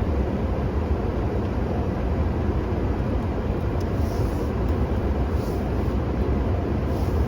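Steady low rumble of a running engine, with no change in speed or load.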